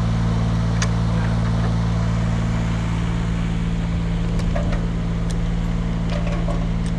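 Large engine idling steadily, a deep even hum, with a few light clicks over it.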